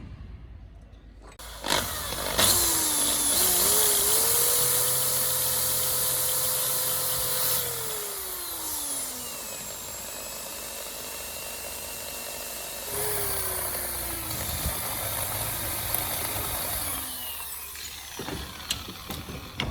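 Electric drill boring a hole in a handlebar riser: the motor spins up about two seconds in, runs steadily for several seconds and then winds down, and runs again later before slowing once more.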